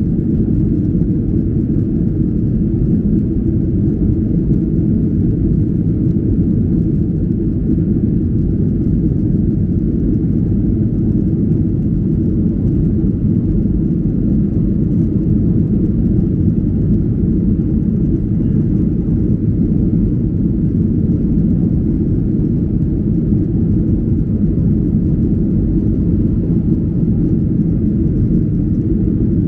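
Steady low rumble of a Japan Airlines Boeing 737-800 in flight, its engine and airflow noise heard inside the cabin, with no change in level.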